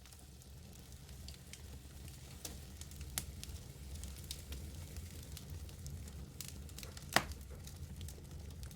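Wood fire burning in a fireplace: a steady low rumble of flames with scattered light crackles and one sharp, louder pop about seven seconds in.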